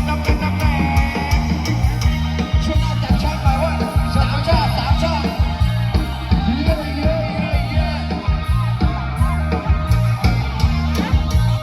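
Loud Thai procession-band music from a sound truck: a steady drum beat and deep bass under electric guitar and a wavering melody line.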